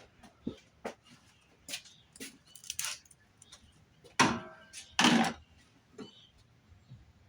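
Hand work on a car: a string of short clicks and rustles, with two louder scraping sounds about four and five seconds in.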